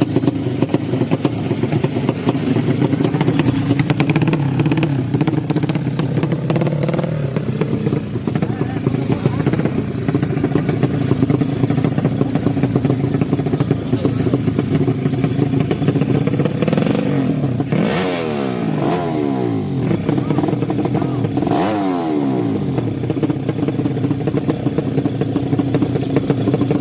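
200cc drag-racing motorcycle engines running and revving. Two bikes sweep past about 18 and 22 seconds in, their engine note falling in pitch as they go by.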